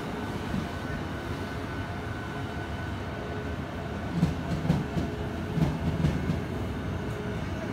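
VR double-deck passenger train pulling out of the platform: a steady rumble with a faint high steady tone, and from about four seconds in a run of clacks and thumps as the wheels pass over rail joints.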